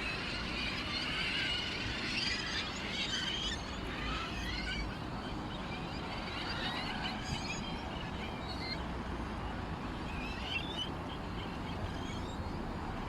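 Many small birds chirping together, a dense chorus of short high chirps for the first few seconds that thins out to scattered chirps, over a steady low background noise.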